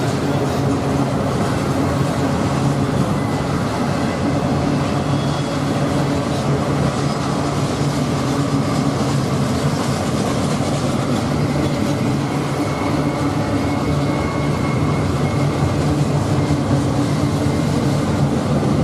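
Freight train rolling past: a steady low diesel-engine drone over the continuous noise of wheels on rails.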